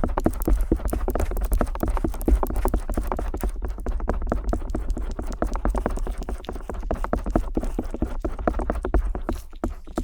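Stainless steel ear pick tapping and scraping on the silicone ear of a binaural microphone. It makes a dense run of rapid, irregular close clicks over low thumps.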